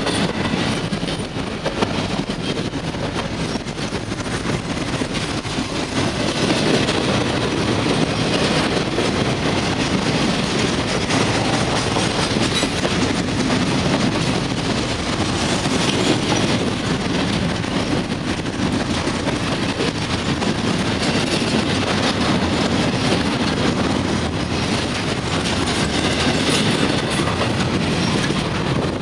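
Double-stack container train's well cars rolling past at close range: a steady rumble of steel wheels on rail, dense with clicking wheel noise.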